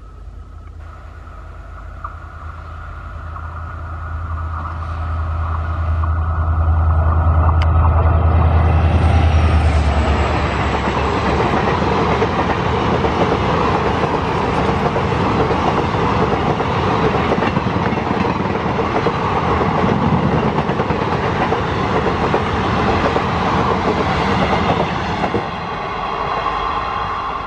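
Diesel-hauled express train passing close by. The locomotive's low engine drone builds to its loudest about eight to ten seconds in. Then the coaches roll past with a steady rumble and clatter of wheels on the rails, easing off near the end as the last coach goes by.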